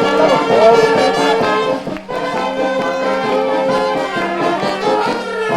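Brass band playing, with trumpets and trombones holding sustained notes and a short break about two seconds in.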